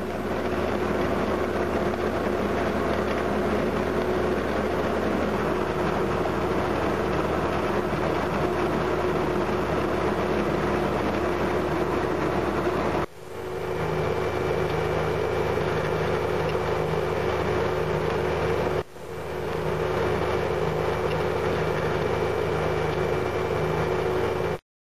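Skid steer running hard with a Coneqtec AP cold planer attachment milling pavement. It makes a steady machine drone with a constant hum and a broad rushing noise. The sound breaks off sharply twice and stops abruptly near the end.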